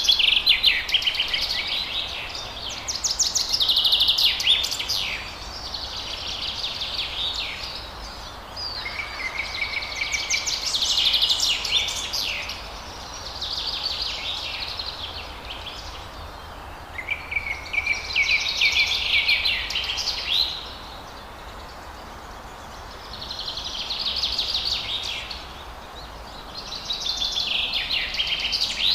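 Forest songbird singing, a run of rapid trilled, twittering phrases about every two to three seconds, over a steady background hiss.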